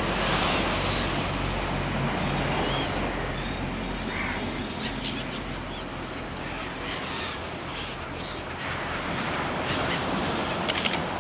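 Ocean surf washing steadily, with wind buffeting the microphone. A few faint short bird calls sound over it, and a quick cluster of clicks comes near the end.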